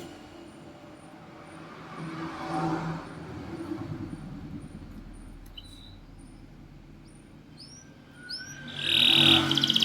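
Domestic canary giving faint short high chirps and a few rising calls, then breaking into a loud trill near the end. A passing motor vehicle is heard in the background earlier on.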